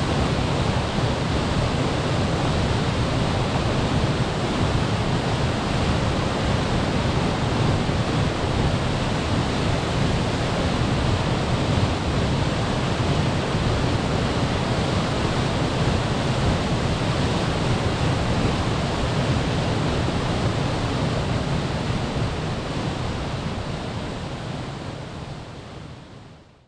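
Steady rushing roar of a waterfall, fading out over the last few seconds.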